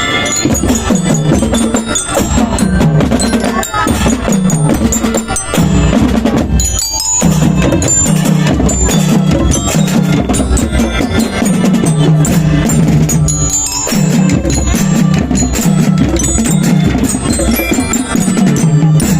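School marching band playing: drums beating along with a bell lyre (marching glockenspiel) carrying the tune.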